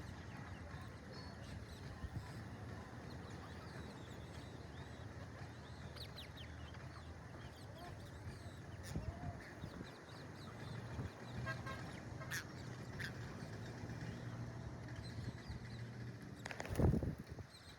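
Parakeets calling in short, scattered squawks and chirps over a steady low hum, with one louder harsh burst near the end.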